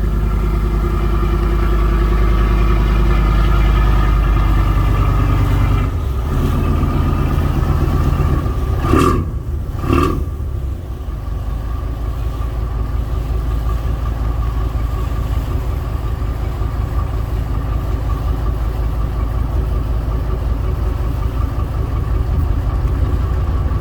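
A boat's engine runs steadily and loudly. Its note drops about six seconds in. There are two brief louder sounds near nine and ten seconds, and then it runs on evenly.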